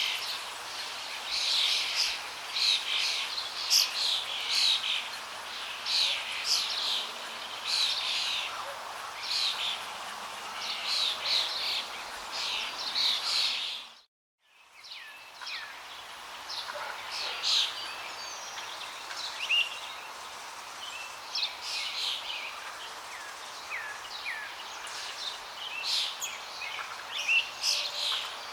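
Many birds chirping and singing in quick, overlapping calls over a steady rush of flowing water. About halfway through, the sound dips briefly to silence and fades back in.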